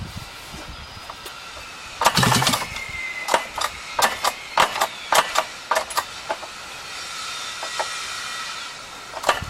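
Snowmobile engine being cranked and failing to catch. A loud burst comes about two seconds in, then a string of sharp clicks and knocks over a faint steady whine. It gets no spark because the ignition coil's built-in wires have broken off.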